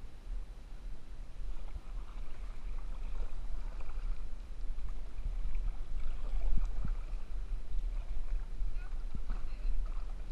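Kayak paddling: paddle blades dipping and splashing in the water, with a couple of light knocks, over a steady low rumble on the microphone.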